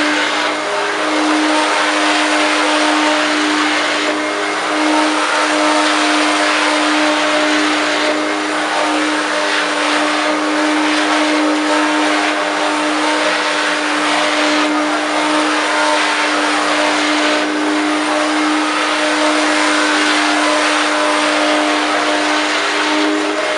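1994 Hoover Turbopower 1 U2806 upright vacuum cleaner running at full power, vacuuming carpet. It is a loud, steady motor whine over a rush of air, with slight dips in the hiss every few seconds.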